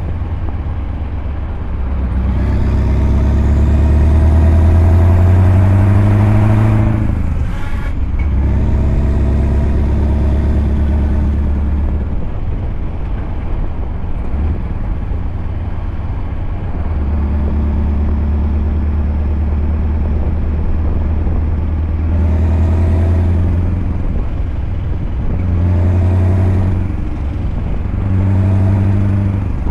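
Scania V8 diesel truck engine pulling, its pitch rising over several seconds before a short break near the start. It then runs at a steady pitch with a lull in the middle, and swells three times in short revs near the end.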